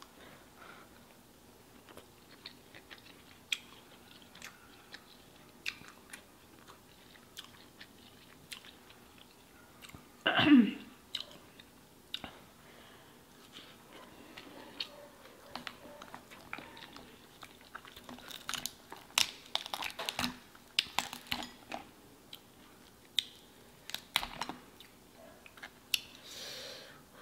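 Close-up chewing and biting of seafood-boil shrimp, with scattered wet mouth clicks and smacks. There is one louder mouth sound about ten seconds in and a busier run of smacks later on.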